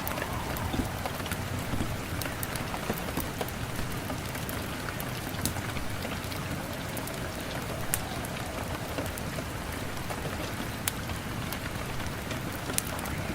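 Steady rain falling, an even hiss with scattered sharp clicks a few seconds apart.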